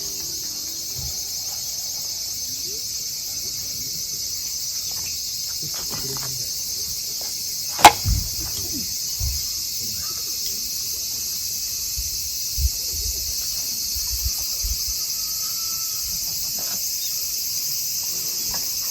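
Steady chorus of crickets chirping. About eight seconds in, a single sharp pop from the burning campfire wood, followed by a few soft knocks.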